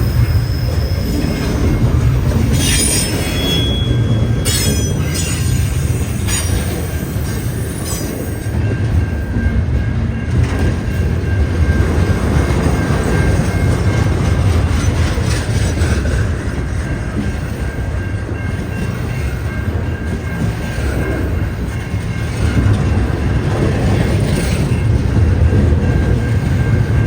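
Freight train cars rolling past at track level, a steady heavy rumble of wheels on rail, with thin high wheel squeals for a few seconds starting about three seconds in.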